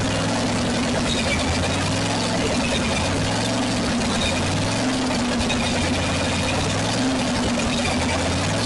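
Supercharged 427 cubic-inch big-block Chevy V8 in a 1965 Chevrolet C10 pickup, idling steadily with a slight rise and fall in pitch.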